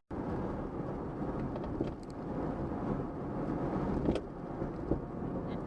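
Car engine and road noise heard from inside the cabin while driving, steady and low, with a couple of short clicks about four and five seconds in.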